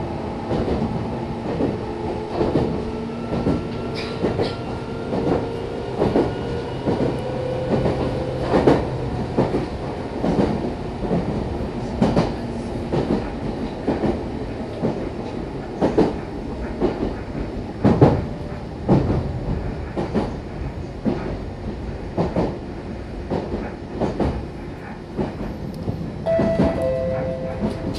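Meitetsu electric commuter train running on the Bisai Line, heard from inside the car: a steady rumble and hum under a series of sharp clicks every second or two as the wheels cross rail joints.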